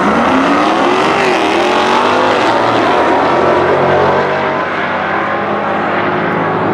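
Drag-racing car engine running hard, its pitch rising and falling as it accelerates, then easing off slightly after about four seconds.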